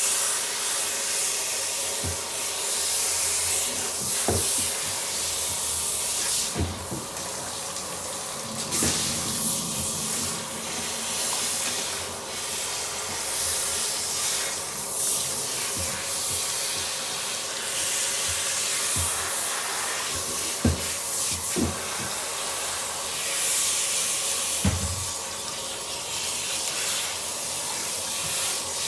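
Water running steadily from a tap or shower spray while a cat is washed, with a few soft low thumps here and there.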